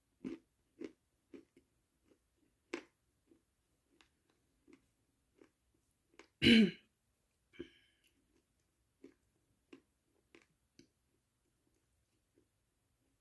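Close-miked chewing: soft wet smacks and clicks of the mouth every second or so. About halfway through comes one much louder throat sound, a gulp as food is swallowed.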